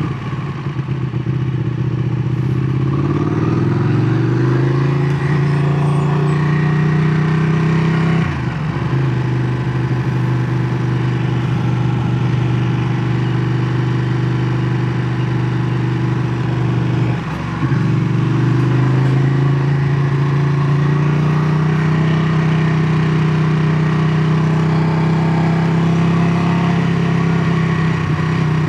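Ducati Panigale 959's 955 cc Superquadro V-twin running loud under load. Its pitch climbs over the first few seconds and then holds steady. Twice, about 8 and 17 seconds in, it breaks off for a moment and picks up again with the pitch climbing, as on a gear change.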